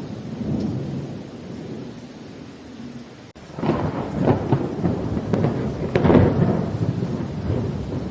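Thunderstorm with rain: thunder rumbling low, then after a brief dropout about three seconds in, a louder crackling thunderclap lasting a few seconds.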